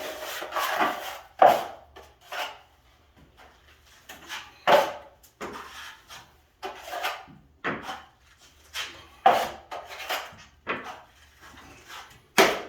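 Short scraping strokes of drywall-finishing work on a joint-compound ceiling patch, about a dozen of them, irregularly spaced roughly a second apart.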